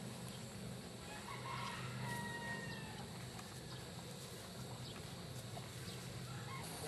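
A rooster crowing faintly about two seconds in, over a steady low hum.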